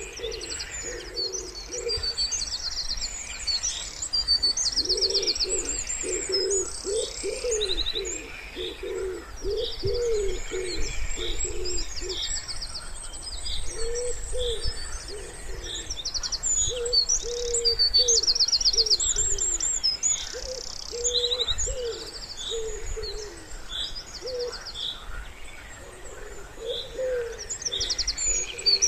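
Wood pigeon cooing in repeated phrases of low, soft coos, over a chorus of small songbirds singing high trills and chirps.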